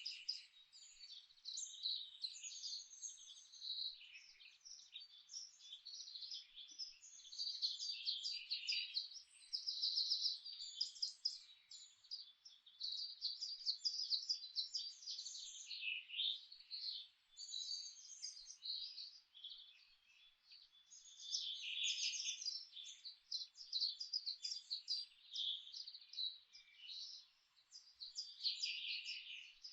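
Forest bird chorus: several songbirds chirping and trilling at once in quick, overlapping phrases, over a faint steady hiss.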